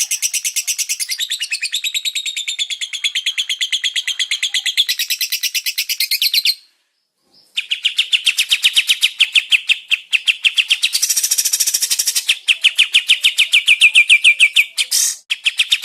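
A songbird singing a fast, rapid-fire run of repeated chirps, about ten notes a second, broken by a silence of about a second near the middle before the run starts again.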